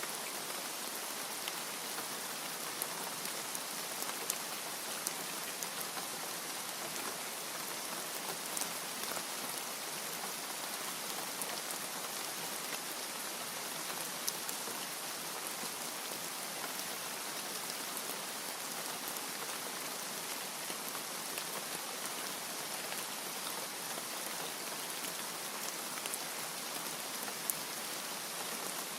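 Steady rain falling on a surface: a constant even hiss with scattered individual drop ticks.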